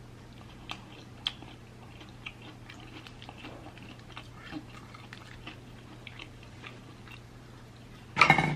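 Chewing of hot-sauced fried chicken wings close to the microphone: soft scattered mouth clicks and small crunches. A sudden loud burst of sound comes near the end.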